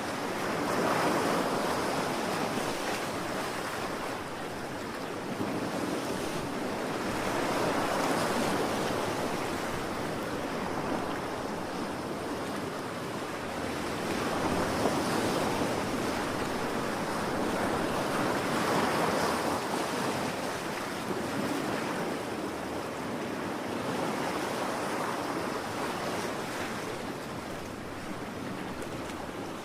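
Ocean surf: waves washing in one after another, each swelling and fading over about five or six seconds.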